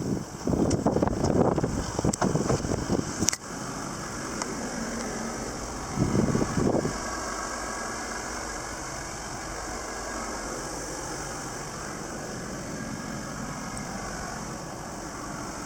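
Suzuki Carry mini truck's small three-cylinder engine idling steadily. The first three seconds are louder and uneven, ending in a sharp click, and there is a brief louder stretch about six seconds in.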